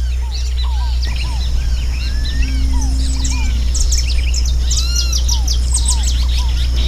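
A dense chorus of many birds calling and singing at once, with short repeated arched chirps overlapping at several pitches, over a steady low rumble.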